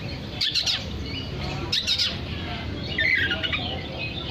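Oriental magpie-robin (kacer) singing: sharp, quick notes, then a falling whistled phrase about three seconds in. A steady low rumble runs underneath.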